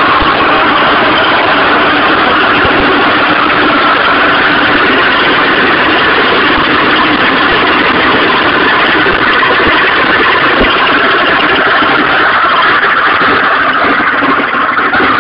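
Stels Arrow scooter engine running steadily with a loud mechanical racket. It is the knock that remained after the piston was replaced with a Malossi one, which the owner describes as a wild noise and rumble that seems to come from the bearings.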